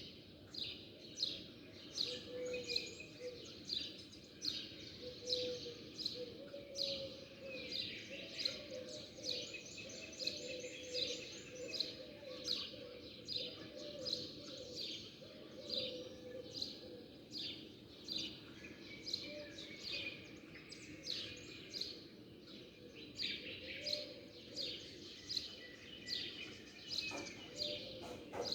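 A group of small birds chirping continuously, many short, quick chirps overlapping, several a second.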